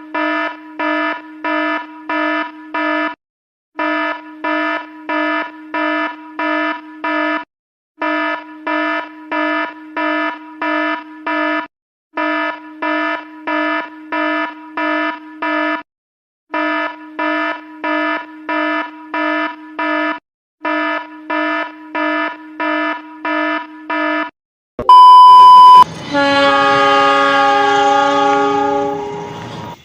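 Railway level-crossing warning bell ringing in quick even strikes, about two and a half a second, in runs of several strikes with short breaks. About 25 seconds in there is a short, very loud beep, then a train horn sounds for about three seconds and fades.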